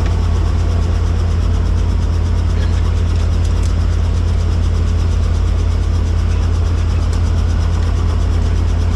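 Helicopter in flight: a loud, steady low drone of rotor and engine, heard from inside the cabin.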